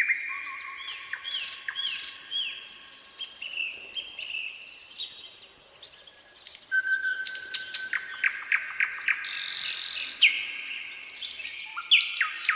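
Nightingale singing a varied song. It opens with a run of repeated down-slurred whistles, then a long level whistle breaks into a fast rattling trill. A harsh buzzy note comes about ten seconds in, and another rapid trill near the end.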